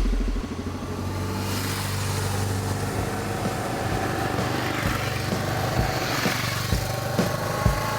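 Motorcycle engine running steadily, with a low hum and a few light knocks.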